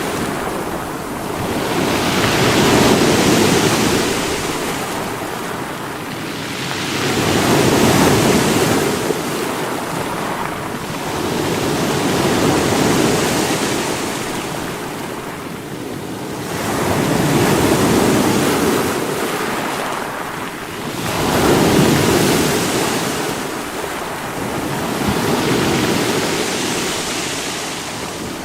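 Sea waves breaking against rocks, a rushing surge that swells and falls back roughly every four to five seconds.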